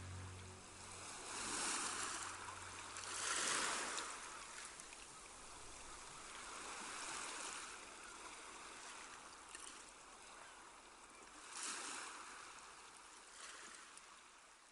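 Ocean waves washing on a shore, the surf swelling and ebbing several times.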